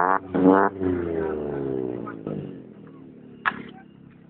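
Vehicle engine revved in two quick blips, each rising sharply in pitch, then the revs falling away and the engine quietening. A short sharp click about three and a half seconds in.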